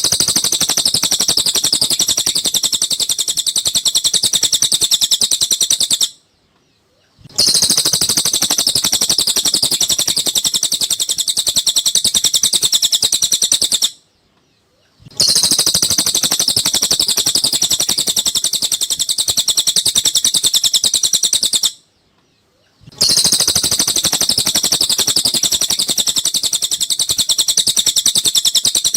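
Cililin songbird recording: a continuous, rapid, very high-pitched trilling song. It plays in stretches of about seven seconds, each cut off by a sudden second of silence, as a looped tutoring (masteran) track for caged songbirds.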